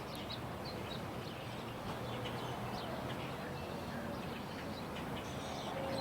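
Small birds chirping in short, scattered notes over a steady low rumble.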